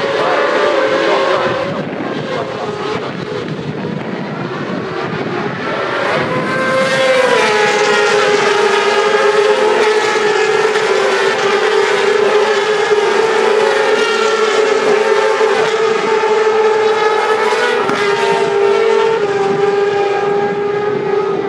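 Racing motorcycle engines running at a race circuit. A stacked engine note steps down in pitch about seven seconds in and then holds steady.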